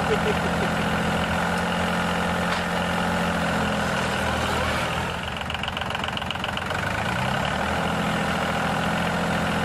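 Tractor engine running steadily, its pitch rising slightly about two thirds of the way in.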